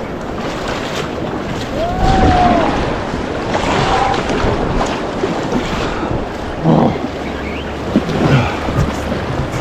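Rushing river whitewater of the Animas at high flow, with wind buffeting the microphone and a few knocks in the second half.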